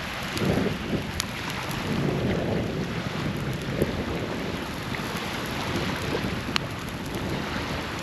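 A newly lit campfire burning, with a few sharp crackling pops, over a steady low rumble of wind on the microphone.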